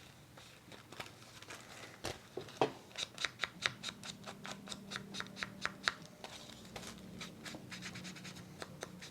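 Scissors snipping paper in quick repeated cuts, about four a second, through the middle of the stretch, then lighter snips toward the end.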